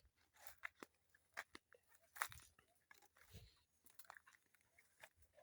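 Faint, irregular crunching and snapping of dry leaves and twigs underfoot in woodland brush, a few louder crackles among the small ones.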